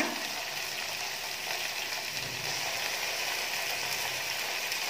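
Sliced onions, tomatoes and green chillies with a dollop of ginger-garlic paste sizzling steadily in hot oil in a pan.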